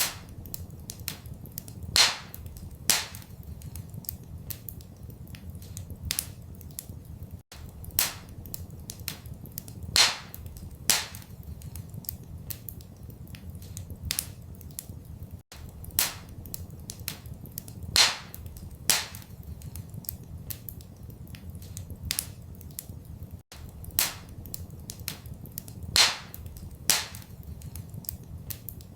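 Wood fire crackling in a fireplace: scattered sharp pops and snaps over a low steady rumble, with a pair of louder pops coming round about every eight seconds.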